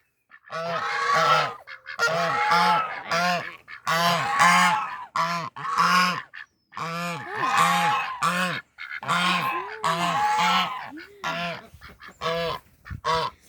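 Domestic geese honking over and over, several calling in quick runs with short breaks between bouts. The keeper puts the honking down to their reaction to a stuffed toy horse she has brought.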